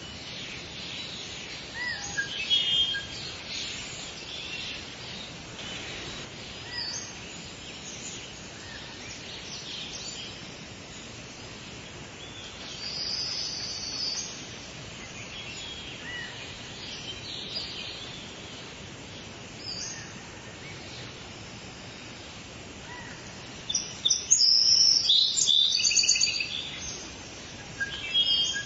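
Wild birds singing and chirping in short phrases over a steady background hiss. A loud, fast run of high song comes about three quarters of the way through.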